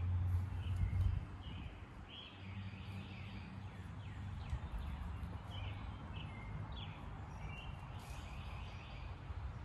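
Small birds chirping and calling in short notes, over a steady low rumble that is loudest in the first second.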